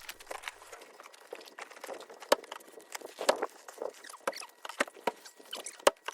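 Irregular crackling and ticking: many small sharp clicks at uneven intervals, a few louder snaps among them, with no steady tone underneath.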